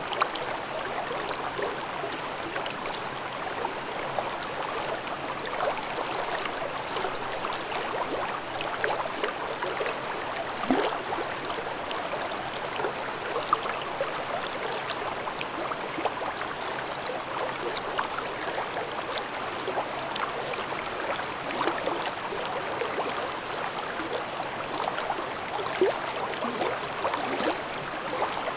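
Mountain stream babbling over rocks: a steady rush of water with constant small gurgles and splashes, and now and then a louder plop.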